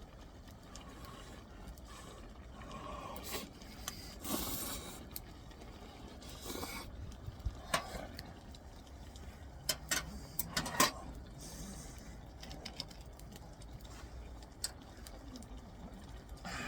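Scattered clicks and light knocks, with a few short scraping sounds, as objects are handled.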